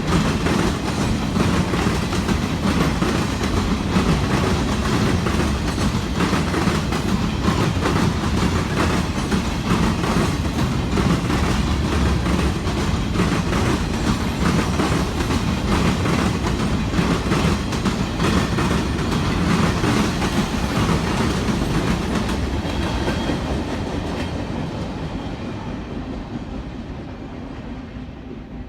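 Freight train cars rolling past, wheels clicking over the rail joints in a steady clickety-clack, fading away over the last several seconds as the train moves off.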